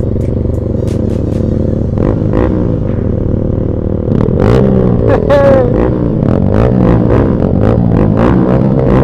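A motorcycle engine running at a steady speed under background music with a steady beat. The music's melody comes in louder about four seconds in.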